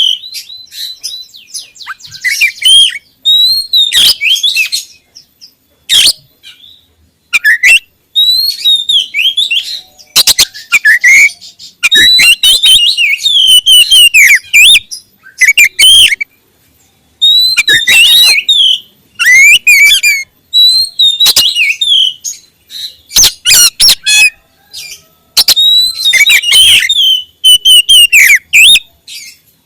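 Oriental magpie-robin (kacer) singing loudly: rapid phrases of varied whistles and sharp clicking notes, delivered in bursts with short pauses between them.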